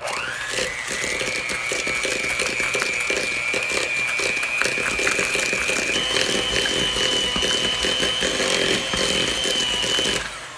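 Electric mixer running, creaming butter with brown and white sugar. It spins up at the start, its whine steps up in pitch about six seconds in as the speed goes up, and it stops about ten seconds in.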